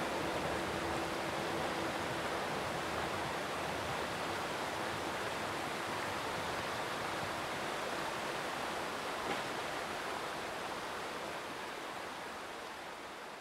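Steady rushing noise of a freight train rolling along the rails, slowly fading away near the end. A faint steady tone dies out in the first couple of seconds.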